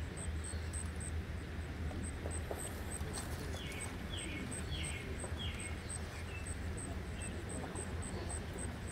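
Outdoor ambience: a steady rushing background with a high, even insect-like chirp about four times a second, and a bird calling four quick downward-slurred notes about four seconds in.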